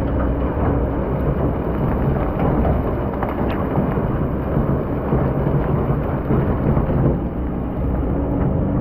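Excavator's diesel engine running steadily under load, with a dense rumbling and grinding as the bucket digs through hard-packed sand.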